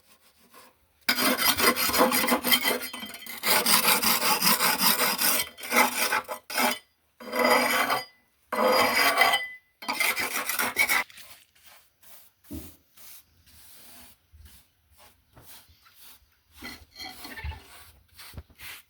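A hand tool scraping over cement in a series of long, loud scraping strokes during cement finishing work. For the last several seconds the strokes give way to quieter scattered scrapes and small knocks.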